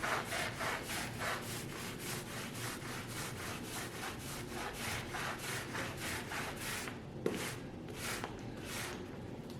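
Rapid back-and-forth hand strokes on wood, about three to four a second, as in hand sawing or sanding a speaker cabinet part, stopping near the end. A single sharp click about seven seconds in.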